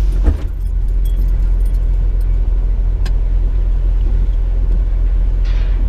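Road noise inside a moving vehicle's cabin: a steady low rumble, with a brief knock about a third of a second in and a faint tick about three seconds in.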